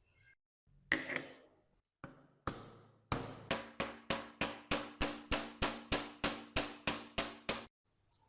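A hammer tapping a metal part over and over, about three or four evenly spaced blows a second, the metal ringing between strikes, after a couple of single knocks; it cuts off suddenly.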